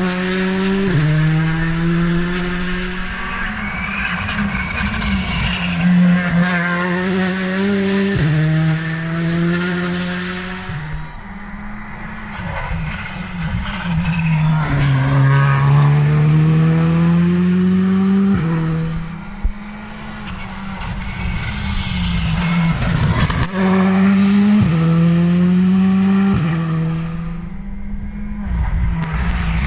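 Rally car engine pulling hard up the gears on a stage, revs climbing then dropping sharply at each shift, easing off once midway before accelerating again. A single sharp crack about two-thirds through.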